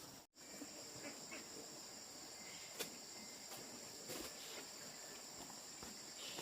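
Steady high-pitched chorus of insects, most likely crickets, with a few faint scattered clicks and knocks. The sound cuts out completely for a moment just after the start.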